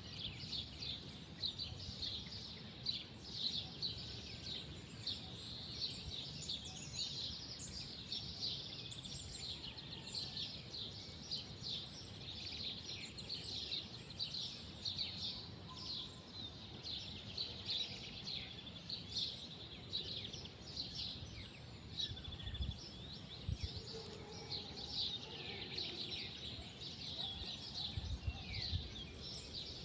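Many small birds chirping, a dense, continuous chorus of short high calls over a low steady background noise, with a few brief low rumbles about two-thirds of the way through and near the end.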